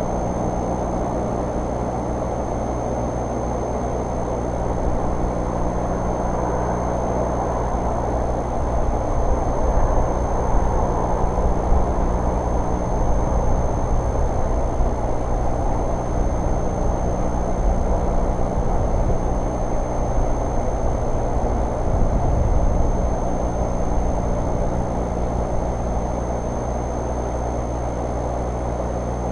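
Vehicle engine idling with a steady low hum, and a thin steady high tone above it.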